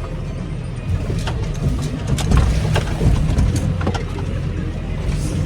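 Tractor engine running with a steady low drone, with scattered clicks and rattles over it.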